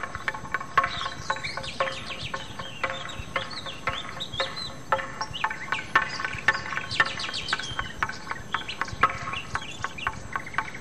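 Birds chirping busily: many short, quick calls and sweeping whistles over a steady background.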